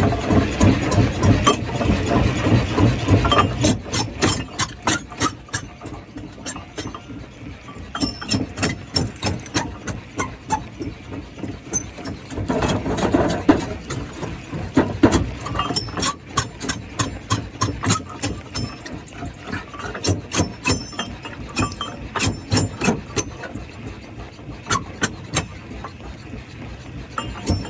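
Rocks clattering and knocking irregularly in a stone crusher, with a heavy engine running loudly for the first few seconds before it drops back.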